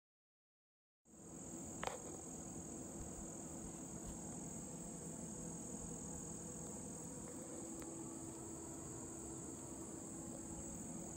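Steady, high-pitched chorus of insects, beginning about a second in, with one sharp click just before two seconds in.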